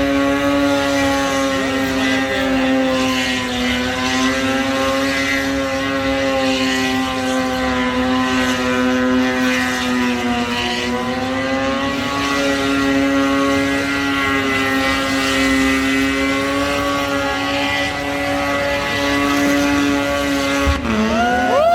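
Car engine held at high, nearly steady revs for a long burnout, the pitch dipping slightly now and then. Near the end comes a sharp pop and the revs fall away.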